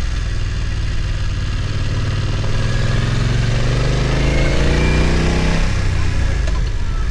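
BMW F900 XR's parallel-twin engine running, rising in revs for about three seconds, then dropping back sharply near the end.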